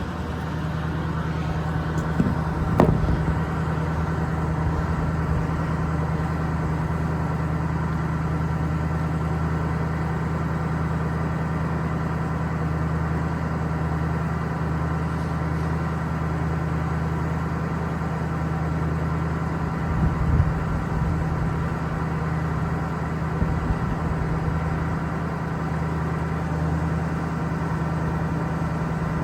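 2008 Ford F550's Power Stroke V8 turbo diesel idling steadily with the PTO engaged to drive the boom hydraulics. A few short knocks a couple of seconds in and again about two-thirds of the way through.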